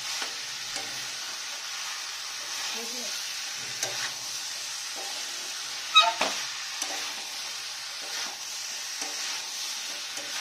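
Mutton keema, potatoes and peas sizzling in a kadai while a metal spatula stirs and scrapes them, in strokes about once a second. About six seconds in, the spatula strikes the pan with a loud ringing clang.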